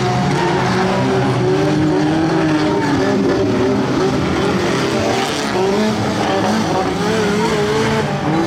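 Stock-car engines running hard, their pitch rising and falling as they rev, with more than one engine heard at once over a hiss of tyre and track noise.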